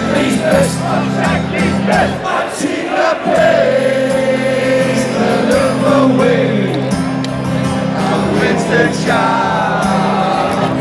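Large crowd of Liverpool football supporters singing a chant together over loud amplified music with a steady low backing.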